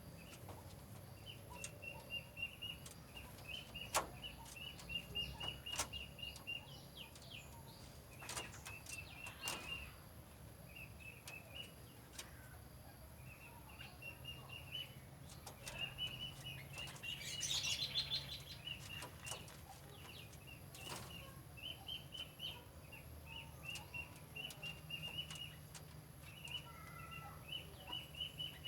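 Bird chirping in repeated quick runs of short high notes, with scattered clicks and a louder rustling burst about seventeen seconds in.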